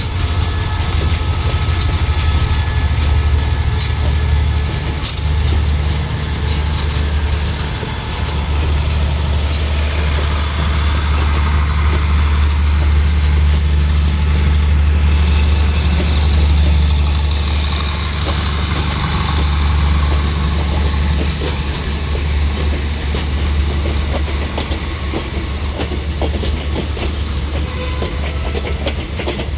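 Diesel-hauled passenger train pulling out of the station, its engine giving a steady low drone, with a hiss swelling and fading in the middle and faint clicking from the wheels.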